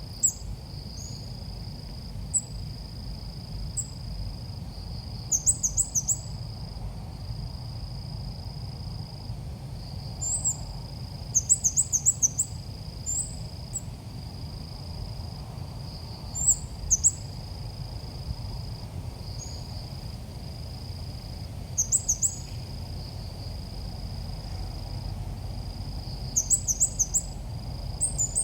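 Red-whiskered bulbul calls played as a lure to call bulbuls in: short, rapid, high chirping phrases in bursts every few seconds, over a steady high-pitched buzz and a low rumble.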